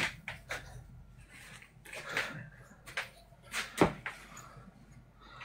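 Scattered rustles and knocks of paper being pushed into a fireplace to get the fire going, the loudest a sharp knock a little under four seconds in.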